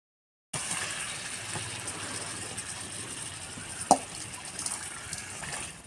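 Chicken curry sizzling in a pot over a wood-fired clay stove, a steady hiss that starts suddenly about half a second in, with a single knock about four seconds in.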